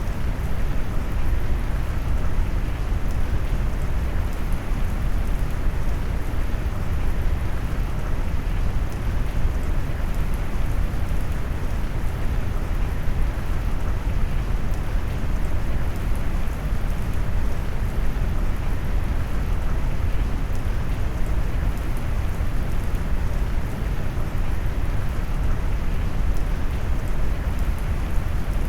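Steady rain noise mixed with brown noise, a deep, even rushing heaviest in the bass with the high hiss rolled off, unchanging throughout.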